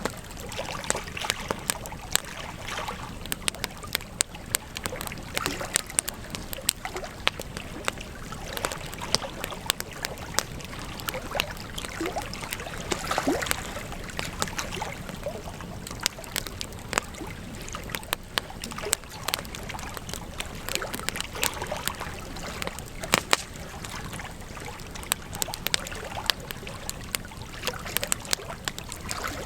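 Campfire burning, with frequent irregular sharp crackles and pops over a steady hiss.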